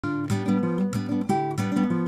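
Background music: strummed acoustic guitar playing a rhythmic chord pattern.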